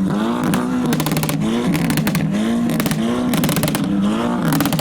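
Seat Cupra's engine being revved hard for a decibel test, the note climbing, holding briefly and dropping several times, with short bursts of rapid crackling between revs.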